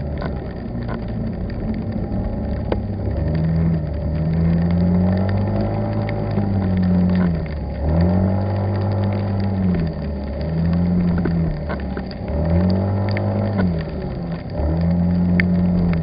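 Vehicle engine running under repeated changes of throttle, its pitch rising and falling every second or two, with scattered sharp ticks.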